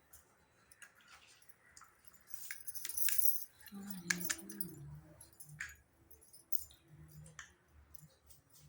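Light clicks and clinks of small toy kitchen pieces being handled, with a short rustle about two to three seconds in.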